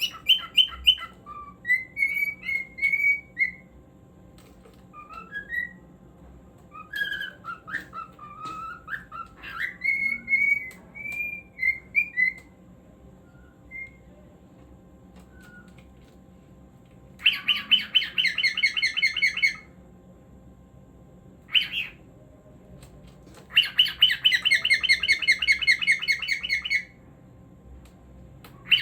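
Cockatiel whistling a run of short gliding notes, pausing now and then. Past the middle come two longer bouts of fast, repeated chirping, each a few seconds long, with a single short call between them.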